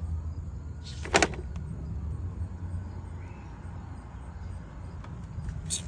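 Cadillac ATS engine idling with a steady low rumble, with a sharp clack about a second in and a smaller one near the end.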